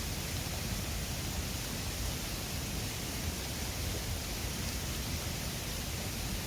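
Mountain river flowing over its stony bed, a steady, even rush of water.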